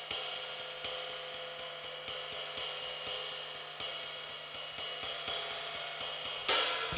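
Drum kit intro: a cymbal, hi-hat-like, struck in a steady pattern of about four strokes a second. A cymbal wash swells in near the end, leading into the full band.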